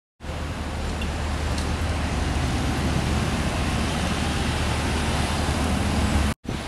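Engine of a 1978 American LaFrance fire truck running steadily with a deep low rumble. It starts abruptly a moment in and cuts off suddenly near the end, followed by gusty, uneven noise.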